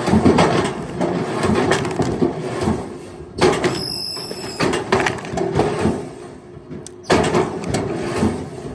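Firewood logs knocking and clattering against each other in a rapid, uneven run of knocks, as wood is thrown onto a pile.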